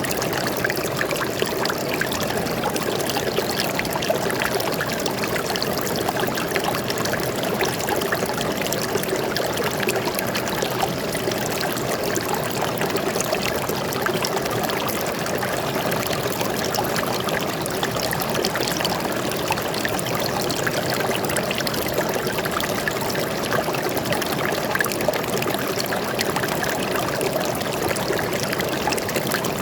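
Stream water flowing and trickling over rocks, a steady rushing babble with fine splashing flickers.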